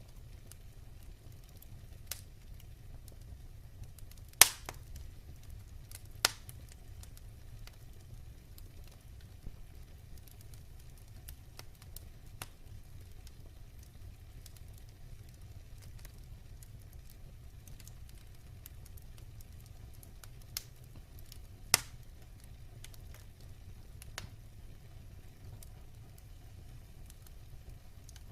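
Wood fire burning in a fireplace: a steady low rumble of the flames with scattered crackles and pops, a few sharp loud pops standing out, about four seconds in, near six seconds and about twenty-two seconds in.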